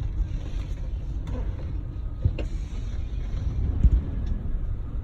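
Vehicle on the move: a steady low road rumble with a few faint knocks.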